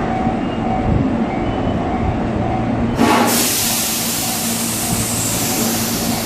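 Electric commuter train rumbling with a steady low hum. About three seconds in, a sudden loud hiss of air starts and slowly eases off, typical of the train's compressed-air brakes venting.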